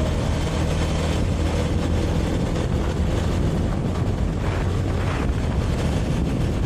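Small motorcycle riding at road speed, with wind rushing over the onboard microphone.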